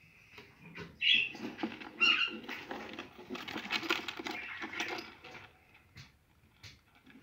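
Budgerigars: two short, sharp chirps about a second apart, then a couple of seconds of quick, scratchy pattering that fades into a few faint ticks.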